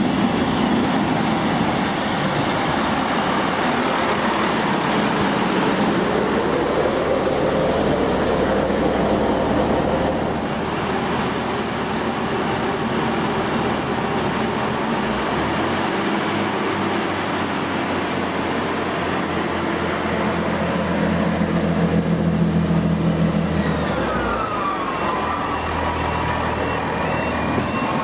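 Diesel passenger train running close by: engine and wheel noise throughout, with a tone that rises in pitch in the first third and another that falls away near the end.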